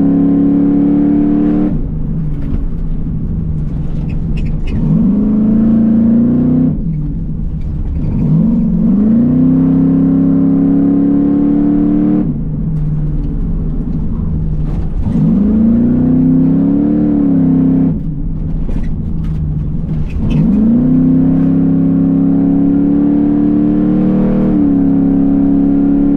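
Car engine being driven hard through an autocross course. The engine note repeatedly climbs under throttle, then drops sharply as the driver lifts, about five times in all.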